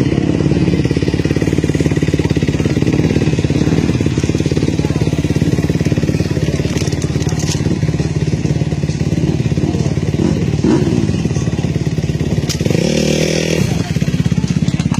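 Motocross motorcycle engines running steadily at the starting grid, a fast continuous firing pulse.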